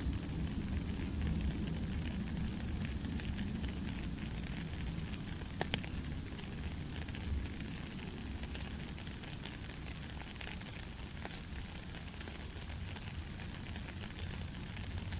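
Steady white-noise hiss with a low rumble underneath and a few faint crackles and clicks scattered through it.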